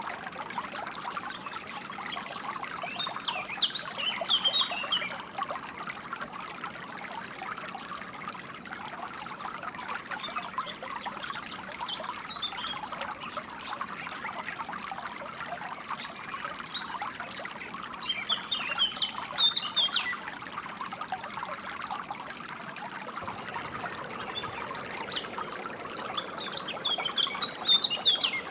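Flowing water trickling steadily. Songbirds break in four times with short phrases of quick high notes, every six to eight seconds or so.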